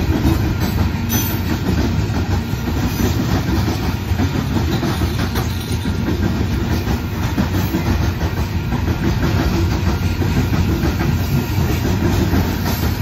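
Coal train's loaded-length string of coal cars rolling steadily past, a continuous low rumble with the clatter of steel wheels on the rails.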